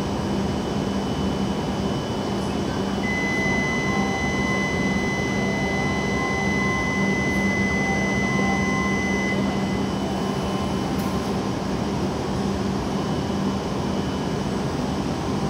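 Steady hum of a stationary E7-series Shinkansen train and platform ambience, a constant low drone under an even noise. A steady high electronic tone sounds from about three seconds in and stops about six seconds later.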